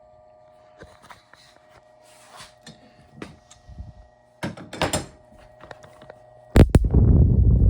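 Scattered clicks, taps and knocks of plastic pipe fittings and tools being handled, over a faint steady hum. Near the end come two sharp knocks, then a loud low rushing noise lasting about a second.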